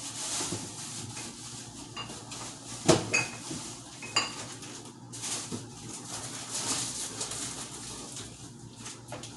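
Kitchen clatter of dishes and utensils knocking and clinking, with one sharp knock about three seconds in and short ringing clinks just after it and again about a second later.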